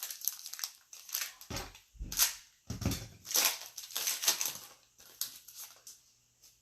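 Crinkling and crackling of trading card pack wrappers and cards being handled, in irregular bursts with a few soft thumps.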